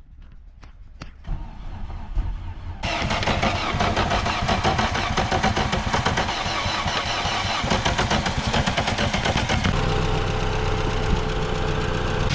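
Volkswagen Golf engine cranked by the starter and catching about three seconds in, then running with a rapid, even beat that turns steadier near the end.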